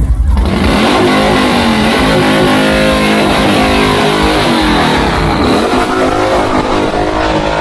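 A motorcycle engine revving hard for several seconds, its pitch dropping and climbing again twice, with music playing underneath.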